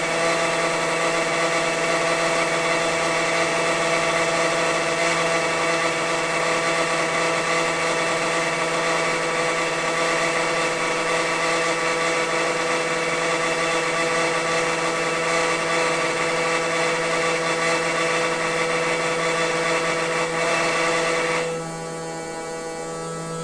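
Noisy household water pipe humming and hissing steadily, a rushing sound with several held whining tones in it. Near the end the rushing suddenly drops away and a quieter steady hum remains.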